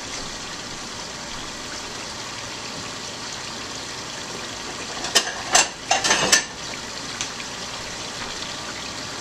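Jumbo shrimp and scallops frying in a wok of hot oil, a steady sizzle. A few sharp clatters of a utensil against the wok come about five to six seconds in.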